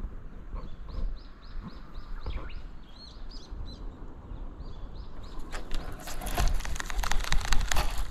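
A small bird singing a rapid run of short, evenly repeated high chirps, about four a second, for the first four seconds or so. From about five seconds in, a louder scratchy rustling and crackling takes over until the end.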